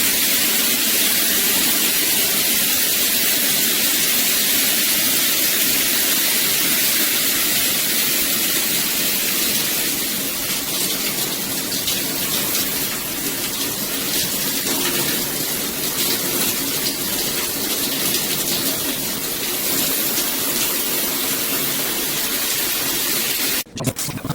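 Aisoso 3-inch high-pressure shower head running, a steady hard spray of water beating against the bathtub. It cuts off near the end.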